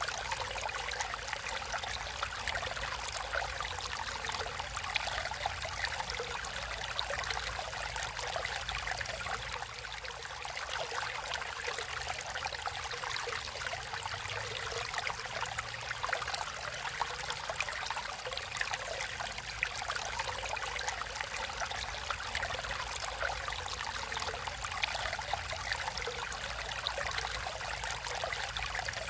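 Natural stream of water flowing steadily, with a dense patter of small splashes and trickles.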